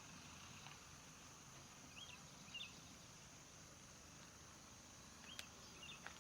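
Faint natural ambience near silence: a steady high insect drone, with four short bird chirps, two about two seconds in and two about five and a half seconds in.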